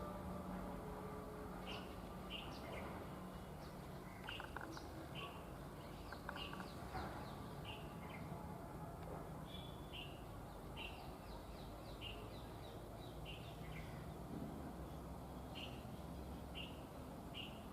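A small bird chirping over and over, short high notes repeated roughly once a second, over a low steady background hum.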